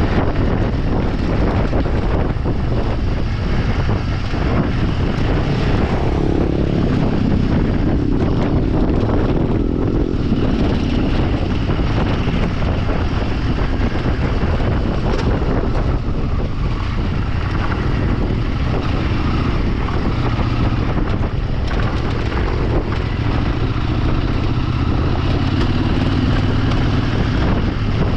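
Off-road motorcycle engine running steadily under way, mixed with wind rushing over the microphone.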